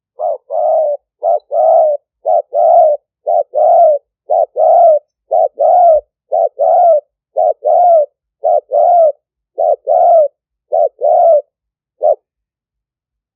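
Spotted dove cooing close to the microphone: a rhythmic run of about eleven phrases, each a short coo followed by a longer one, roughly one phrase a second, breaking off near the end.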